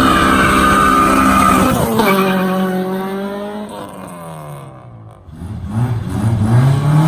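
Car engine held at high revs with tyres squealing. About two seconds in the pitch drops sharply and the sound fades away, then it climbs in pitch and grows loud again near the end.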